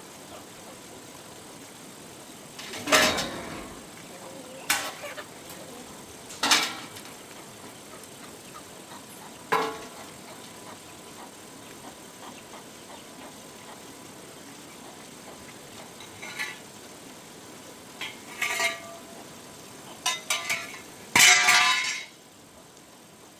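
Metal pieces clanking and clinking as they are handled, in separate knocks several seconds apart. Some leave a brief ring, and the loudest clatter comes near the end.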